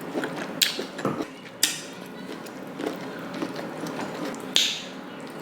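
Close-miked eating of saucy king crab: wet chewing and smacking with scattered clicks and clinks of cutlery, and three short, louder noisy bursts about half a second, a second and a half, and four and a half seconds in.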